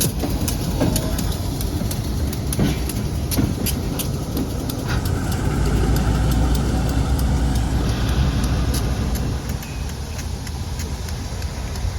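Freight train rolling past, its steel wheels clicking over rail joints for the first few seconds, then a steady low rumble that eases off near the end.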